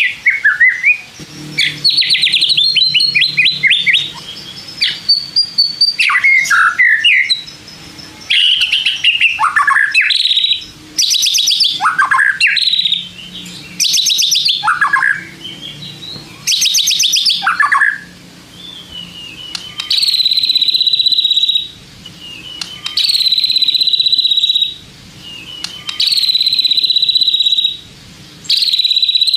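White-rumped shama (murai batu) singing a lure song: varied whistled phrases and fast trills, then one phrase repeated four times, a short rising note leading into a long harsh buzzing note.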